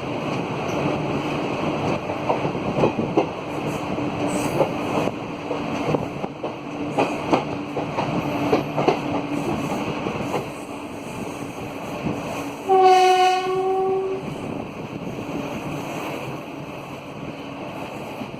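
Passenger train running, its wheels clicking over rail joints, then one loud blast of about a second and a half on the WAP4 electric locomotive's horn, a little past two-thirds of the way through.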